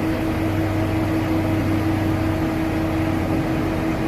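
An engine running steadily, a constant mechanical drone with a steady hum. A lower part of the hum drops away about two and a half seconds in.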